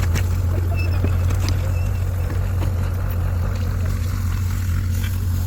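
Tractor engine running steadily, a constant deep drone with no change in speed.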